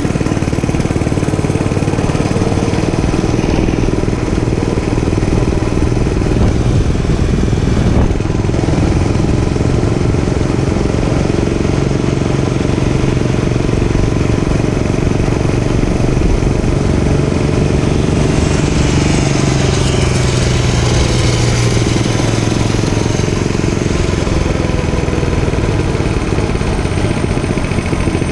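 Dirt bike engine running loudly while being ridden, its pitch rising and falling with the throttle.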